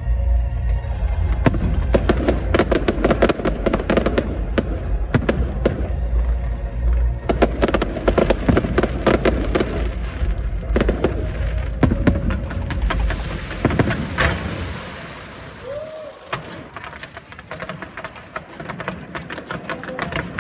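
Aerial fireworks going off in quick succession: rapid crackling and popping over deep booms, thinning out to scattered pops about fifteen seconds in.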